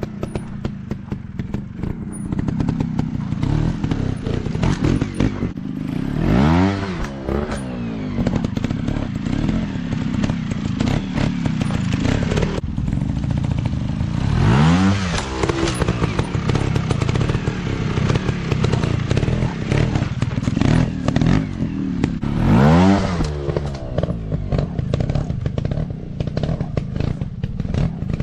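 Motocross dirt bike engines running hard, with three sharp revs rising and falling in pitch, about eight seconds apart, over a steady clatter.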